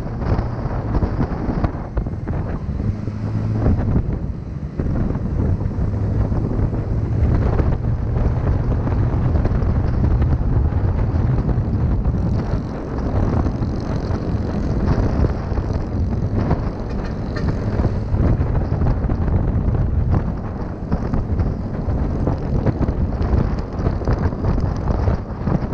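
Small motorbike engine running steadily while riding, with wind buffeting the microphone.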